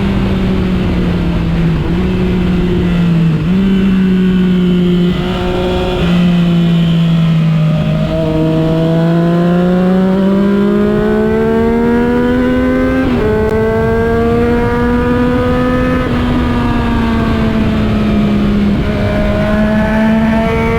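Motorcycle engine under way, its pitch rising and falling with road speed and jumping abruptly at several points as gears are changed, with a long climb in pitch through the middle. Low wind rumble runs underneath.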